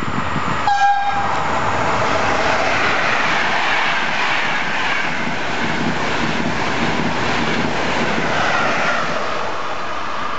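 A passenger train gives one short horn blast about a second in, then passes at speed: a steady rush of wheels on rail, with a whine that falls in pitch as it goes by.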